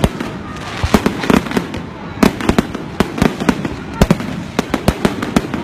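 Fireworks going off: many sharp bangs and cracks, often in quick clusters, over a continuous rumbling background of further bursts.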